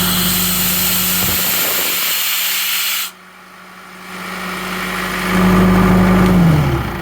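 Grimmer-Schmidt 185 portable air compressor running, with compressed air hissing out loudly until it cuts off suddenly about three seconds in. The engine keeps running, grows louder, then winds down and stops near the end.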